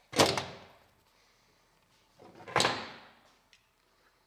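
Two sharp, loud bangs about two and a half seconds apart, each trailing off over about half a second; the second has a short rising lead-in before it.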